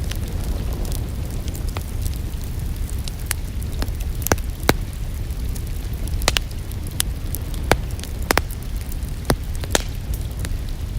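Wood fire crackling in a fireplace: irregular sharp pops and snaps over a steady low rumble. The louder pops come more often from about four seconds in.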